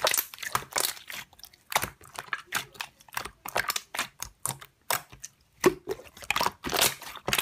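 Slime being pressed and squished by hand, giving quick irregular crackling clicks and pops, several a second.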